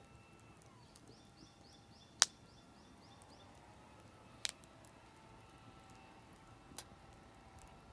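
Oak firewood campfire crackling, with three sharp pops, the loudest about two seconds in. A bird sings a quick run of repeated high chirps during the first few seconds.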